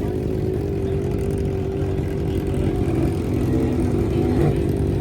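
Car engine running with a steady, deep drone, swelling slightly in loudness partway through.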